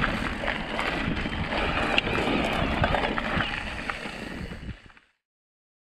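Wind buffeting the microphone over rumbling mountain-bike trail noise with scattered clicks, fading out to silence about five seconds in.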